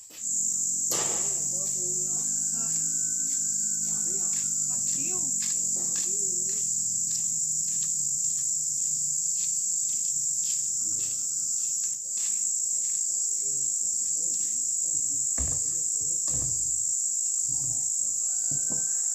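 Loud, steady, high-pitched insect drone of cicadas or crickets, with repeated light knocks or taps throughout.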